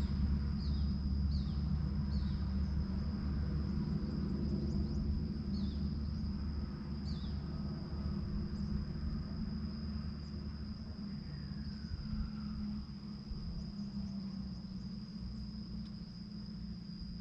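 Rural field ambience: a steady high insect trill and a low rumble, with scattered short falling chirps from small birds, mostly in the first half. No francolin call.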